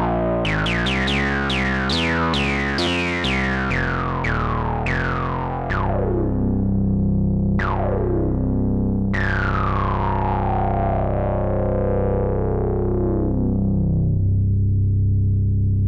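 Behringer Odyssey analog synthesizer playing a quick run of short notes, each with a resonant filter sweep falling in pitch. About six seconds in, a held low bass note takes over, and two more notes sound over it, the last with a long, slow downward sweep that fades away.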